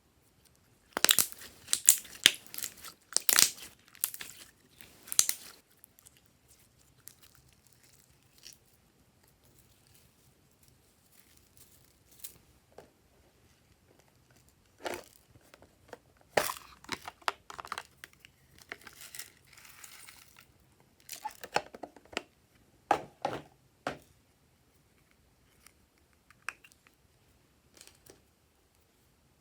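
Glossy slime being stretched, pressed and folded by hand, giving crackling, tearing sticky pops in three bouts with quiet pauses between.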